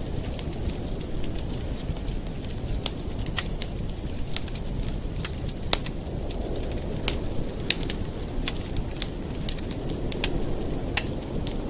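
Campfire burning, with a steady low rumble of flames and irregular sharp crackles and pops of wood, several a second.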